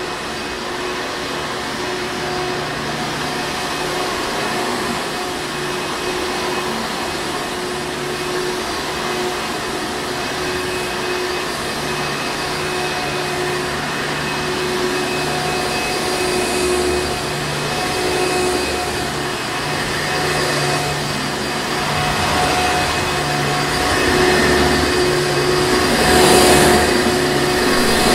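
Hoover Encore Supreme vacuum cleaner running continuously: a steady motor drone with a constant whine, growing a little louder in the last few seconds.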